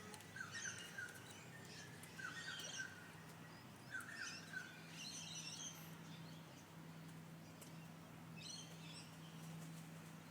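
Wild birds giving short chirping calls in scattered bursts, about half a dozen times, faint and at a distance, with a low steady hum underneath.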